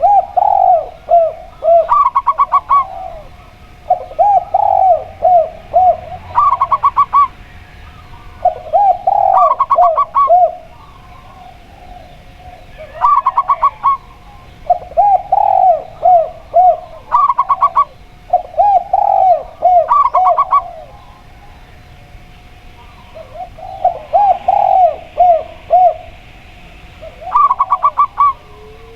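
Zebra dove (perkutut) and spotted dove (tekukur) calling back and forth. The calls repeat in groups: short, fast, high stuttering phrases alternate with runs of lower, rounded cooing notes, with a few seconds' pause between groups.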